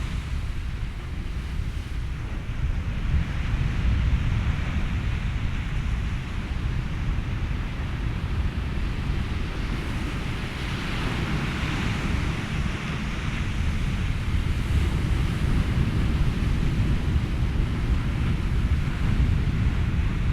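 Ocean waves and wind blended with white noise: a steady deep rumble with a hiss on top that swells gently about halfway through.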